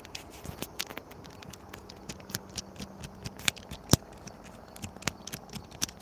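Handling noise at the microphone: irregular clicks, taps and rattles, with one sharp knock about four seconds in.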